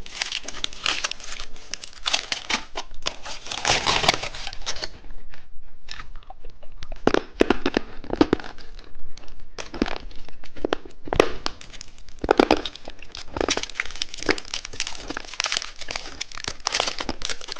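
Plastic candy packaging crinkling and tearing as it is handled and opened, in irregular bursts of rustling crackle.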